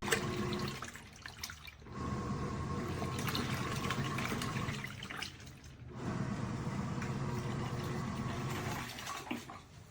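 Water rushing and sloshing inside a portable washing machine, in three spells of about three seconds, each broken off by a brief lull.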